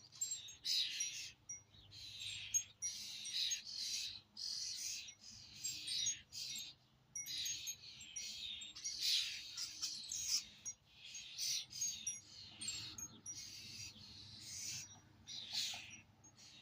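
A flock of songbirds calling and chirping in a constant chatter of short, harsh, scratchy calls, one overlapping the next.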